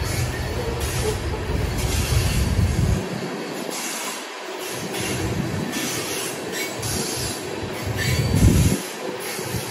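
Coal train's hopper cars rolling past on the rails: steady wheel-and-rail noise under a low rumble that drops away about three seconds in and returns in uneven surges.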